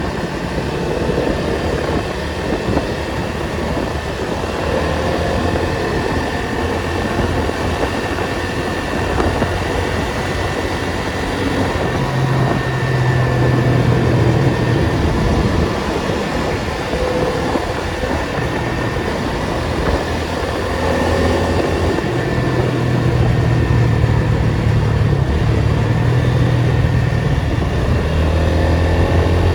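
Datsun 280Z's inline-six engine running at low revs in slow traffic over steady road and tyre noise. The engine note rises a little about twelve seconds in and again from about twenty-two seconds.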